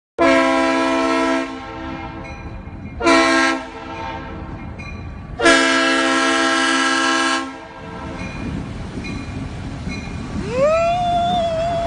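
Multi-note air horn sounding three long blasts, the last and longest about two seconds, over a steady low rumble. Near the end a single wavering tone rises, holds and falls away.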